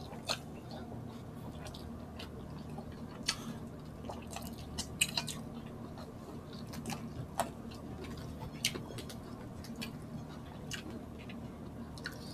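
Two people chewing and lip-smacking as they eat rice and pork sisig with their hands, with scattered short wet clicks over a faint steady low hum.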